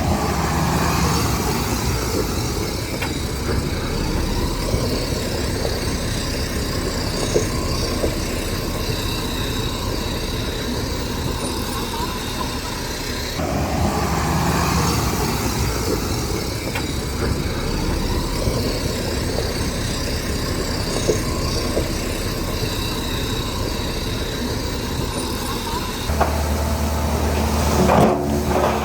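Heavy diesel earthmoving machinery running steadily, with scattered clanks and knocks over the engine noise. The sound changes abruptly about halfway through and again near the end.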